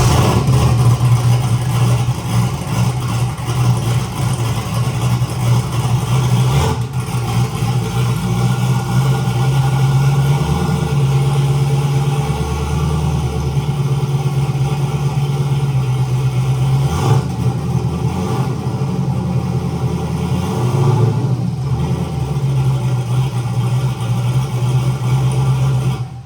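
Turbocharged LS V8 in a third-generation Camaro IROC running steadily at low revs, with brief changes in its note about 7, 17 and 21 seconds in, as the car is put into reverse and drive to test whether the drivetrain binds up. The sound cuts off abruptly at the end.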